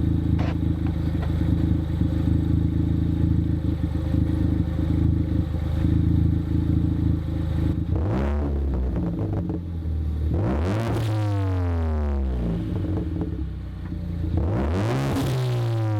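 2015 Ford Focus ST's turbocharged 2.0-litre four-cylinder through a Cobb exhaust, idling steadily, then revved three times: a short blip about eight seconds in, then two bigger revs, each rising quickly and sinking back to idle.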